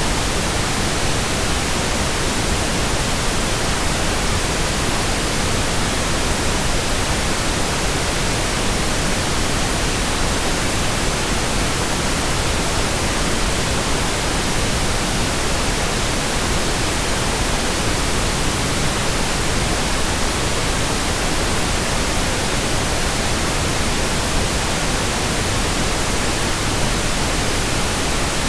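Steady, unbroken white noise: an even hiss spread across all pitches, with no changes or other sounds.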